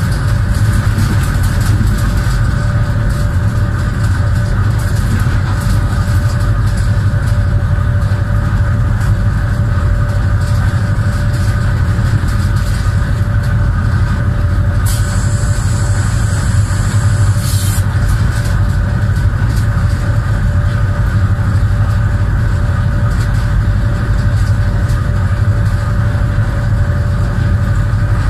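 Pakistan Railways locomotive running at speed, heard from the cab: a steady, heavy rumble with a steady whine over it. About halfway through, a high hiss comes in for about three seconds and cuts off.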